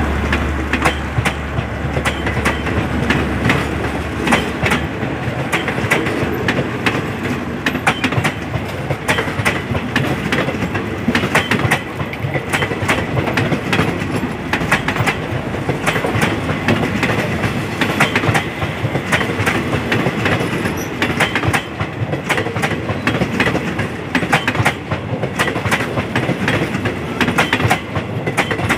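Passenger train coaches rolling past close by, their wheels clicking and clattering in a rapid, steady stream over a continuous rumble. A low rumble underneath dies away in the first few seconds.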